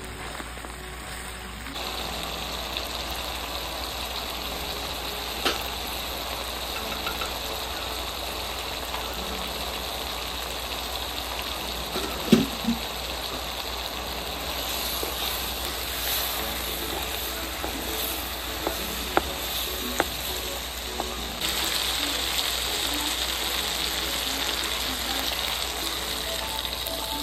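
Sliced mushrooms and bacon sizzling as they fry in butter in a pan, with a few sharp knocks of a wooden spoon stirring. The sizzling gets louder in the last few seconds as milk is poured into the hot pan.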